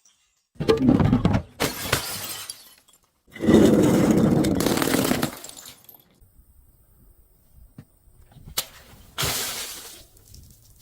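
Glass bottles breaking and shattering in a series of crunching bursts. The longest and loudest comes about three and a half seconds in and lasts about two seconds, with a sharp click and a shorter burst near the end.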